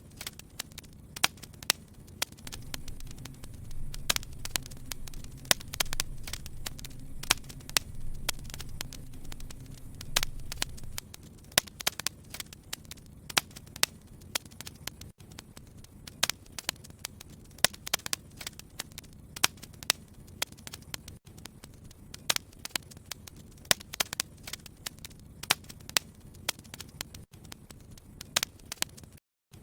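Wood fire crackling, with a steady run of sharp, irregular pops and snaps. A low rumble of flames underlies the first ten seconds or so. The sound cuts out for a split second near the end.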